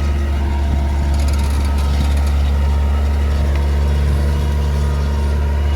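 New Holland T7040 tractor's six-cylinder diesel engine running steadily under heavy load, a deep even drone, as it pulls a subsoiler ripper through hard ground.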